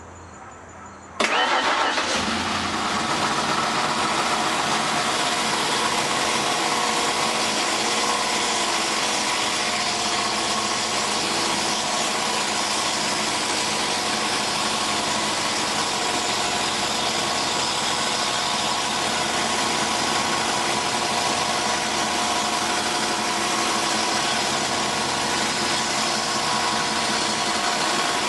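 1991 Ford Crown Victoria's V8 engine starting about a second in on its first start after sitting four years, then running steadily.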